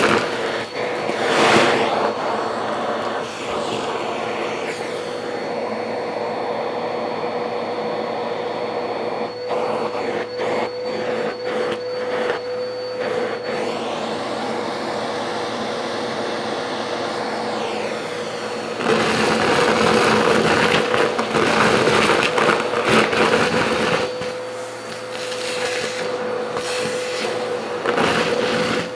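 A motor running steadily with a constant hum, growing louder for a few seconds past the middle.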